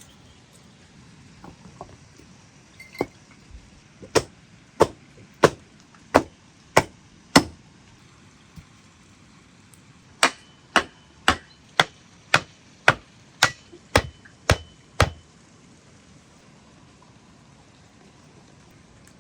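A heavy blade chopping down onto a wooden block in regular strokes: six blows, a pause, then ten quicker blows about two a second.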